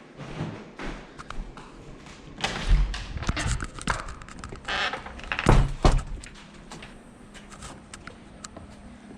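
Clunks and thuds of a pickup's door and its latch being worked, the loudest about halfway through. The latch is failing to release, so the door won't open.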